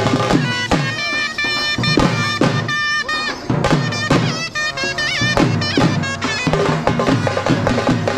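Veeragase folk music from Karnataka: tamte frame drums beating a fast, steady rhythm, with an ornamented melody line played over them.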